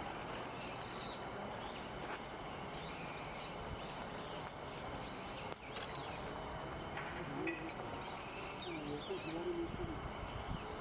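Wild birds giving scattered short, faint chirps and calls over a steady outdoor background noise.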